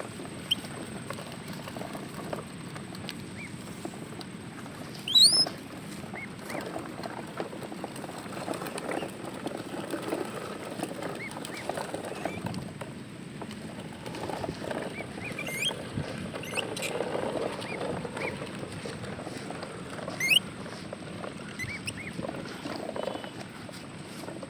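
Short, high, rising squeaks from small animals, a handful scattered through, over a steady rustling patter.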